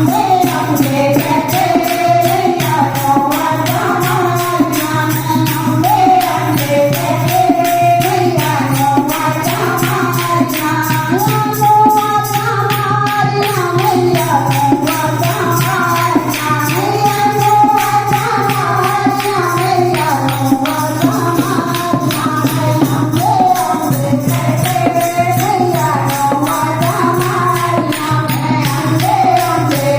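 Hindu devotional kirtan: voices singing a bhajan melody to a steady beat of jingling tambourine-like hand percussion.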